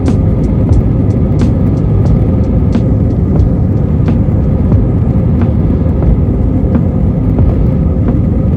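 Airliner cabin noise: a loud, steady, low rumble with a steady hum through it, and light sharp clicks or knocks every half second or so that come less often towards the end.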